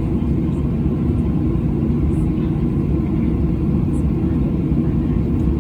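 Steady, loud low rumble of a jet airliner's engines and airflow, heard inside the passenger cabin.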